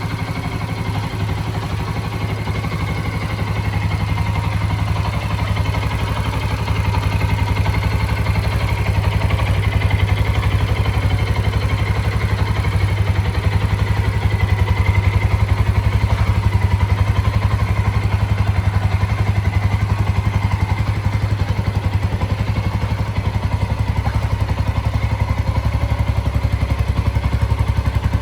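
Suzuki ST250E's fuel-injected single-cylinder engine idling steadily, an even run of exhaust pulses.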